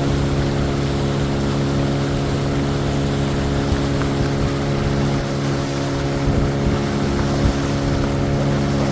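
An engine running steadily at one constant speed, an even drone that does not rise or fall.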